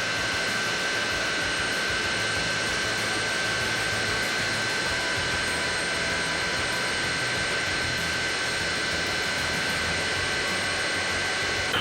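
Jet aircraft engines running steadily: a constant rushing hiss with a high, unchanging whine.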